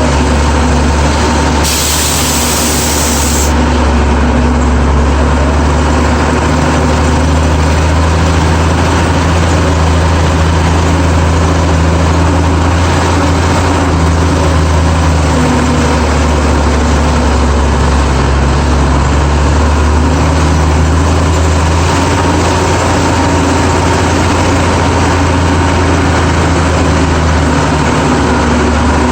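GMC DUKW amphibious truck's straight-six engine running steadily under way, a loud deep drone heard from on board, its pitch shifting slightly now and then. A brief hiss about two seconds in.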